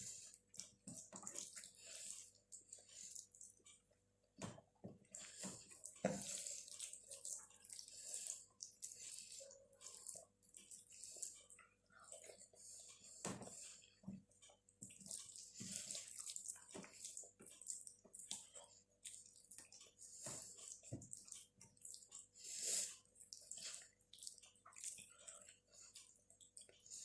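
Faint, close-up wet chewing and mouth sounds of someone eating soft, saucy food (rice with palak paneer and mashed potato), with irregular smacks and clicks.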